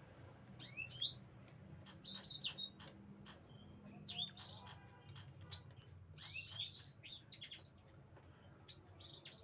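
Bird chirping in short bursts of quick rising and warbling high notes, five or six bursts a second or two apart, over a low steady hum and faint clicks.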